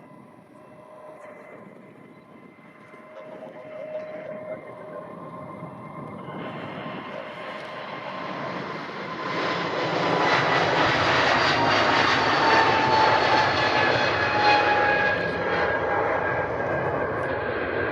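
Airliner's engines passing close by, growing steadily louder over about ten seconds and then holding, with engine whines sliding slowly down in pitch as it goes past.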